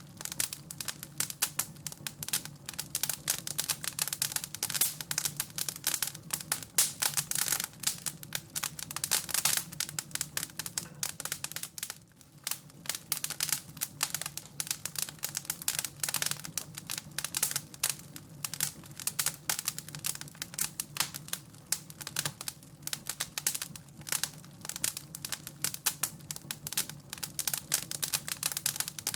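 Wood fire crackling and popping in a fireplace: a dense, irregular run of sharp crackles that never stops, over a steady low hum.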